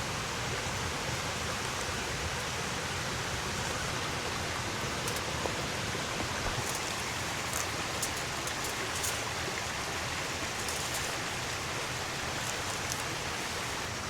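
Steady rain falling on a canvas tent, a constant hiss with scattered light ticks of individual drops.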